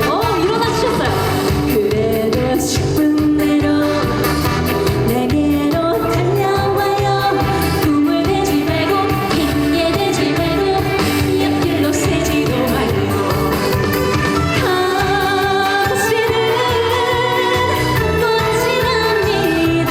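A trot song: a woman singing the melody over a backing band track with a steady dance beat.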